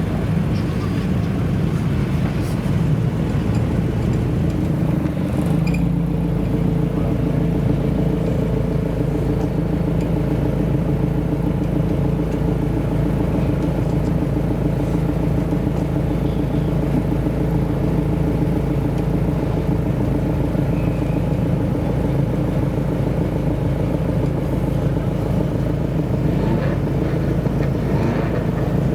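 Modified car engine idling steadily with a deep exhaust rumble; its note shifts slightly about five seconds in, then holds steady.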